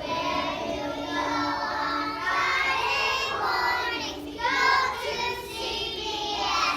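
A young child singing, with long held notes and a brief break about four seconds in.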